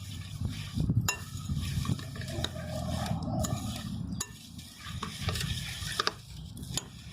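A spoon stirring a bowl of bird seed, crumbs and mealworms bound with melted suet: a steady scraping and churning, with occasional clinks against the bowl.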